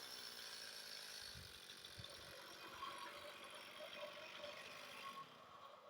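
Faint metallic rattling and a few soft, low knocks from the chainsaw mill being handled, with the saw no longer running.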